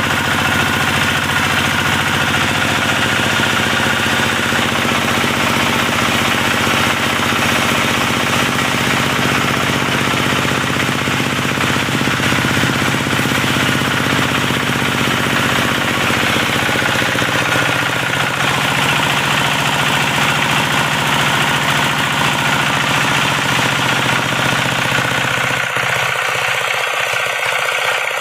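Diesel-engine-driven wood saw running steadily, a high steady tone over the engine's rumble; the low rumble drops away near the end.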